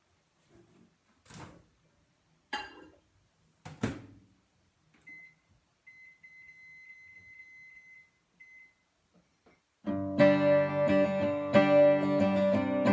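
A microwave oven being worked: three sharp clicks and knocks, then a faint steady high-pitched tone for about three seconds. About ten seconds in, strummed acoustic guitar starts and becomes the loudest sound.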